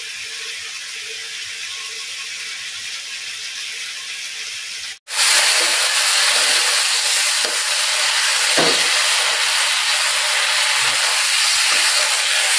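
Onion-tomato masala sizzling and frying in a kadai while a spatula stirs it, with a few faint scrapes. The sizzling becomes much louder about five seconds in.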